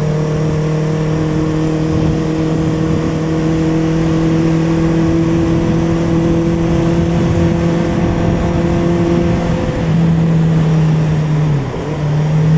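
1976 Honda CB400 Four's four-cylinder engine running at a steady cruise under the rider, with a constant rush of noise behind it. About eleven seconds in, the engine note drops and dips briefly, then picks back up.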